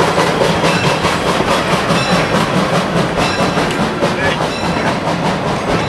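Vintage railroad passenger coaches and an open-air car rolling past, their steel wheels running on the rails and clicking over the rail joints.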